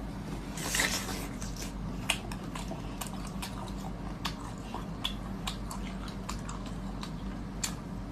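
Close-miked eating: a bite about a second in, then chewing heard as a scattered run of short, sharp clicks and smacks.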